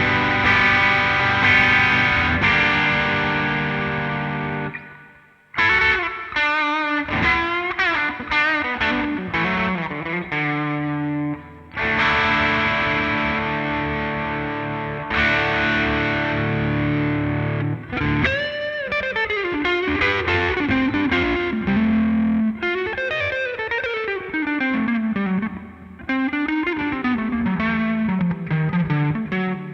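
Yamaha RS620 electric guitar played through a Greer Amps Lightspeed overdrive pedal, with a mildly overdriven tone. Held chords ring out and die away, the first fading to a brief gap about five seconds in. Between and after them come single-note lead phrases with string bends and slides.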